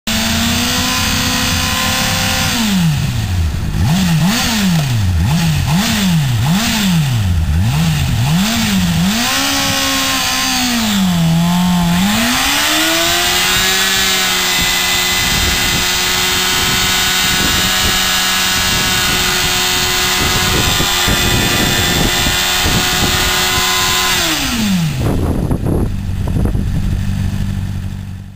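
2007 Honda CBR600RR inline-four engine being revved while standing: it idles, is blipped up and down about seven times in quick succession, then climbs and is held at high revs for about ten seconds before dropping back to idle. The sound cuts off suddenly at the end.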